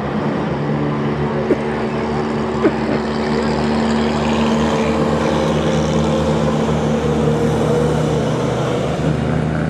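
Racing truck engines running steadily at a slow caution pace, holding a constant drone. Two short sharp clicks come in the first three seconds.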